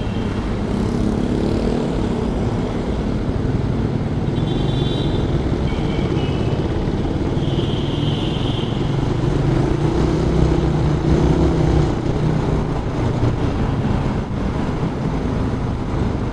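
Suzuki Raider 150 motorcycle engine running steadily while riding, its pitch wavering a little, over road and wind rumble. A few brief high-pitched tones come in about five to nine seconds in.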